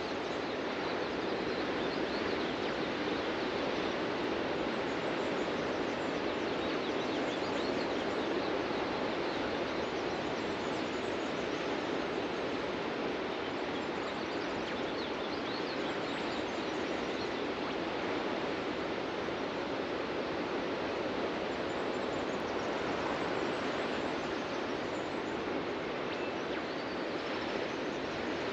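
Steady wash of ocean surf breaking on a beach, with a few faint bird chirps now and then.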